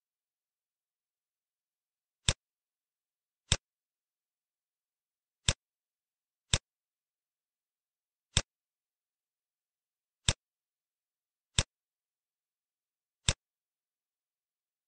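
Computer mouse clicking: eight sharp single clicks spaced unevenly, one to two seconds apart.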